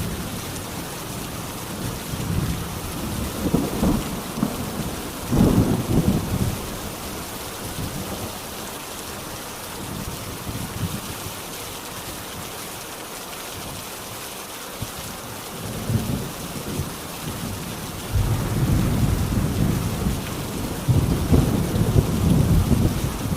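Steady heavy rain hissing, with rolling thunder: two short low rumbles in the first six seconds and a longer rolling rumble through the last five seconds.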